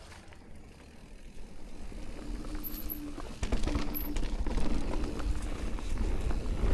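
Amflow e-mountain bike ridden down a trail: tyres rolling over dirt and stones, with rattling clicks from the bike and wind rumble on the microphone. It grows louder as speed builds, with a jump about halfway through.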